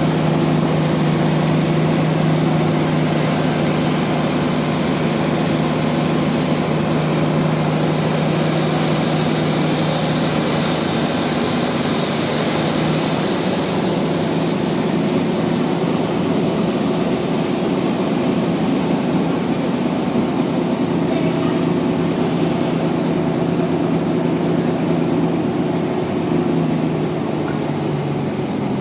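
Sawmill machinery running steadily: a steady low hum under a loud hiss. The hiss drops away about three quarters of the way through, while the hum carries on.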